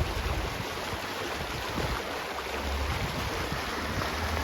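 Rain-swollen creek running high and fast: a steady rush of water.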